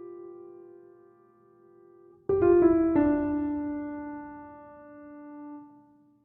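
Background piano music: slow, sustained chords that fade away, with a new chord struck about two seconds in.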